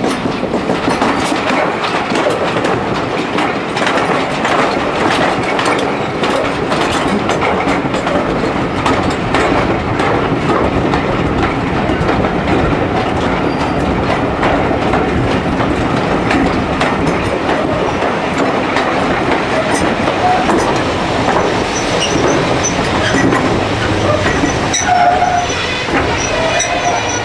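A passenger train coach rolling along, heard from an open window: a steady rumble and rush of wheels on rail with frequent clicks over the rail joints, close alongside parked trains. A few brief high tones sound near the end.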